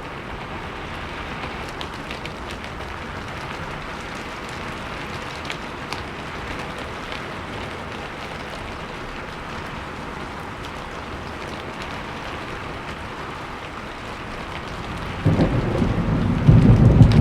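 Steady rain falling, with a few single drops ticking. About fifteen seconds in, a loud low rumble of thunder starts and swells.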